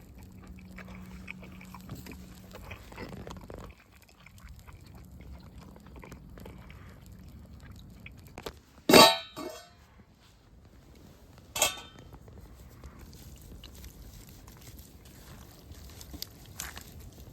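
Camp-cooking handling sounds: small clicks and taps, then a sharp knock about halfway through that rings briefly, and a second, shorter knock a couple of seconds later.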